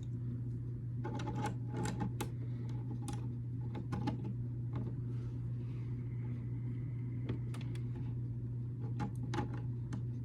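Small plastic building bricks being handled and pressed together, scattered light clicks coming a few at a time, over a steady low hum.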